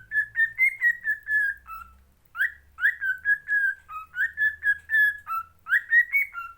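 A pet parrot whistling a tune: a quick run of short, clear whistled notes that step up and down in pitch, with a brief pause about two seconds in. The whistling cuts off suddenly at the end.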